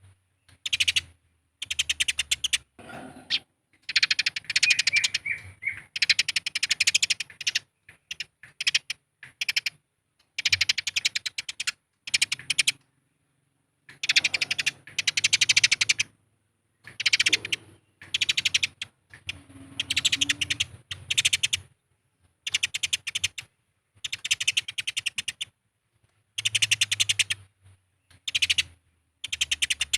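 Eurasian tree sparrows fighting: rapid, harsh chattering chirps in bursts of one to two seconds with short gaps between them.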